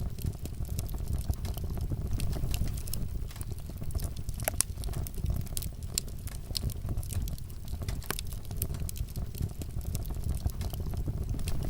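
Wood fire crackling in a fireplace: a low steady rumble of flames with frequent small pops and snaps, a couple of sharper pops in the middle.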